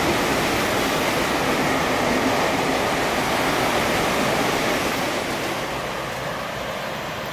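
Thameslink Class 700 electric train passing through at speed: a steady rush of wheel and air noise that fades gradually over the last couple of seconds as the train moves away.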